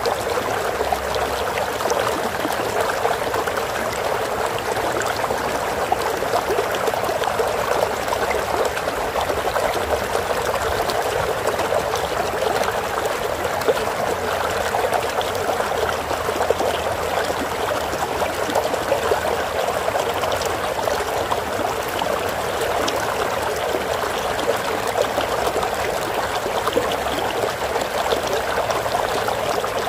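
Water flowing and trickling steadily in a stream, an even rushing with small splashes.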